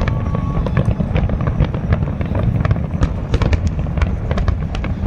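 Fireworks display: many sharp crackles over a continuous low rumble of distant bursts.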